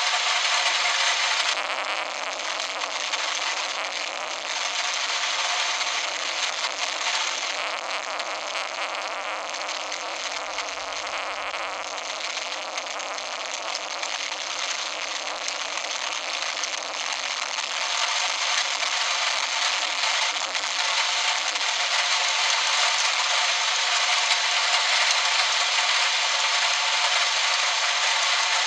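Heavy rain pouring down in a steady hiss, growing louder in the second half.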